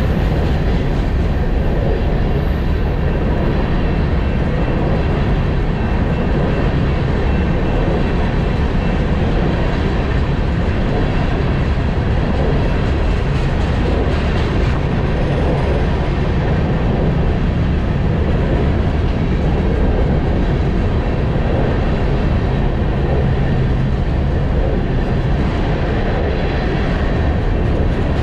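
Empty covered hopper cars of a freight train rolling past, with a steady noise of steel wheels running on the rails.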